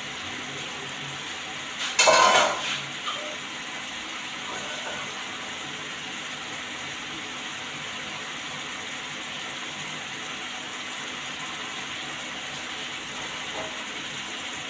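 Green bell pepper and masala frying in a steel pan on an induction cooktop: a steady sizzle, with a brief loud burst of noise about two seconds in.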